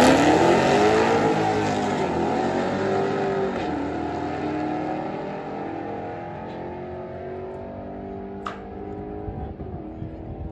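A drag-racing street car's engine at full throttle, accelerating away down the strip and fading steadily into the distance. Its pitch climbs and then drops back about three and a half seconds in and again near the end as it shifts gears.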